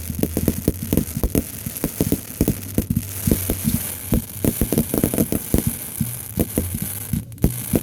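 Fireworks display going off in rapid succession: a dense run of low, muffled booms and pops, several a second, over a steady low hum.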